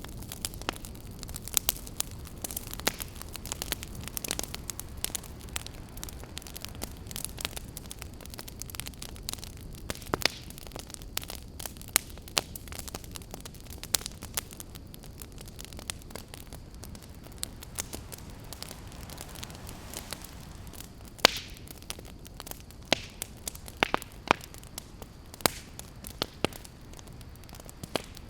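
Crackling wood fire: irregular sharp pops and snaps over a steady low rumble, with the loudest pop about three-quarters of the way through.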